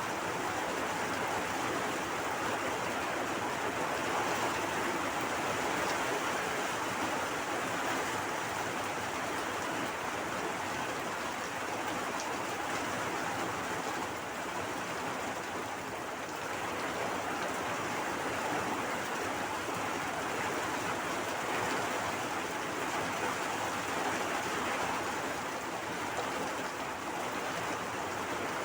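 Steady rain falling hard, an even hiss of water with no breaks.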